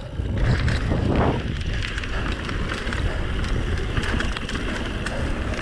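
Mountain bike riding fast down a dirt trail: a steady rush of wind on the microphone and rumble of tyres over the ground, with small scattered knocks and rattles from the bike.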